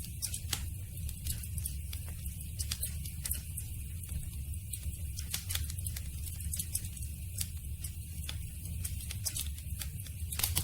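Campfire burning with frequent sharp snaps and pops at irregular intervals over a steady low rumble.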